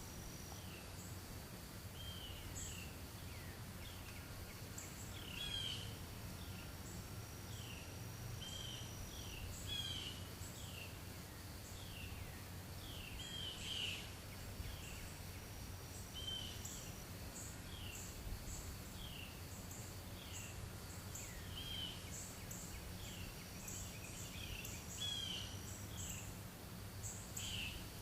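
An unidentified animal in woodland calling over and over with short, high notes that slide downward, about one every second or two. Fainter, higher chirps and a steady low hum run underneath.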